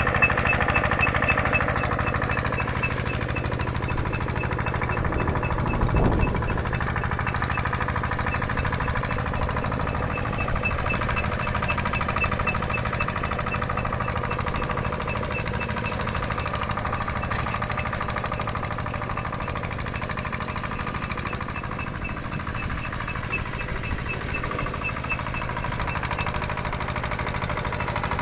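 Workshop machinery running steadily with a rapid, even hammering rattle. There is a brief louder thump about six seconds in.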